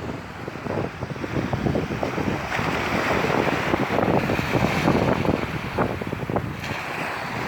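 Caspian Sea waves washing and surging, with gusty wind buffeting the microphone.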